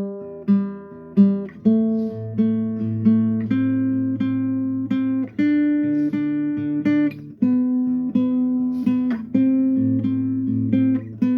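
Acoustic guitar playing a steady picked pattern of ringing notes, the bass note changing every second or two.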